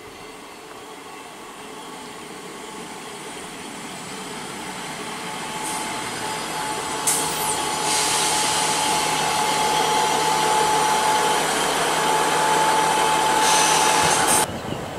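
Class 158 diesel multiple unit running along the platform: engine and wheel noise grows steadily louder as it comes past, with a short high squeal about halfway and a steady whine in the second half. The sound cuts off suddenly near the end.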